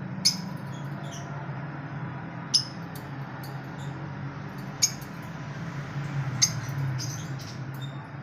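Lovebirds giving sharp, high-pitched chirps, a loud one about every two seconds with fainter calls between, over a steady low hum.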